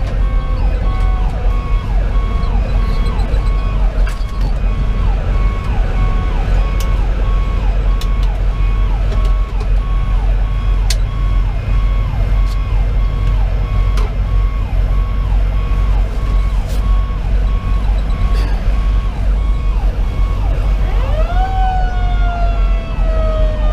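Fire engine sirens wailing together: a Federal Q2B mechanical siren slowly coasting down in pitch and spun back up near the end, over the fast repeating sweeps of a Sho-Me Powercall electronic siren. The 2010 Pierce Velocity pumper's diesel and road noise rumble underneath.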